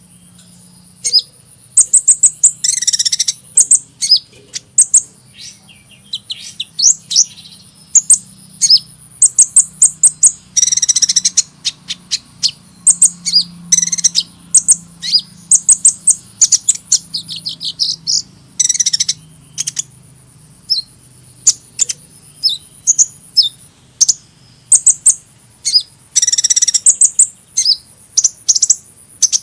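Sunbird (the Indonesian 'kolibri') singing: rapid, high-pitched chirps and short trills in quick bursts, with a thin steady high whine behind them.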